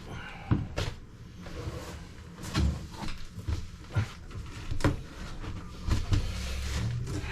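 Chain-type soil-pipe cutter being worked on a 4-inch cast iron soil stack: short metallic clunks about once a second as the handle is worked and the chain squeezes the pipe.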